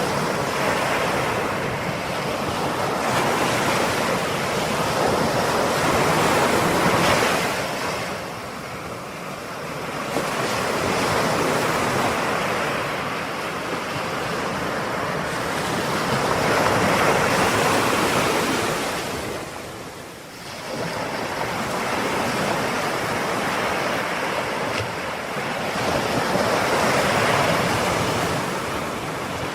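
Ocean surf: waves breaking and washing in, the rush swelling and easing in slow surges every several seconds, with a marked lull about two-thirds of the way through.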